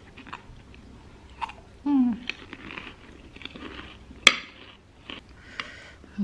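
A person chewing a mouthful of food, with small wet mouth clicks throughout. About two seconds in comes a short, low voiced hum that falls in pitch, and just after four seconds a single sharp click.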